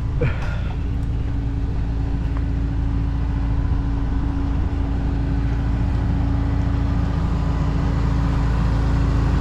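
Vehicle being driven: a steady low rumble of engine and road noise with a constant hum over it.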